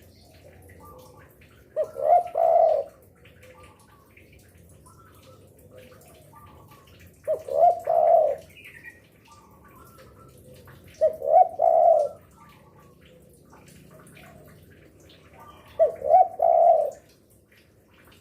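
Spotted dove (derkuku) cooing: four short phrases of two or three notes each, repeated about every four to five seconds, with faint chirps between them.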